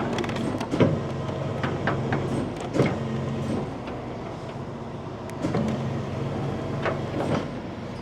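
A vehicle engine idling steadily, overlaid by a few sharp metallic clunks of towing equipment being worked, the loudest two in the first three seconds.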